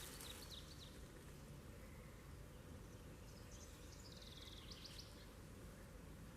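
Quiet outdoor ambience with faint distant bird calls: a few high chirps at the start, then a short run of chirps about three seconds in that ends in a rapid trill.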